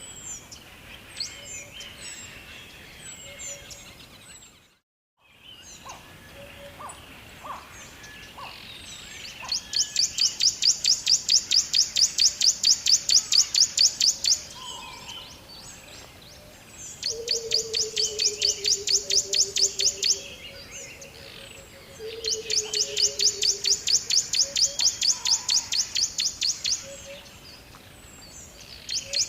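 Birds chirping and calling, with three long, rapid, high-pitched trills that are the loudest sounds, and lower pulsed calls falling slightly in pitch under the second and third. The sound drops out to silence for about a second near the start.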